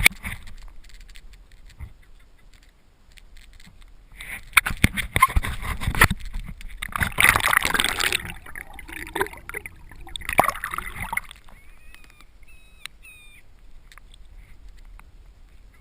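Water splashing and sloshing close to the camera on a Hobie pedal kayak, in irregular surges of rushing water with quieter lapping in between.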